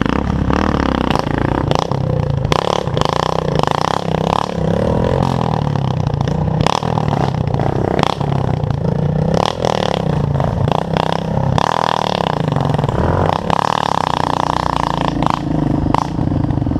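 Trail motorcycle engine running under load, revving up and down over and over, with scattered clattering knocks.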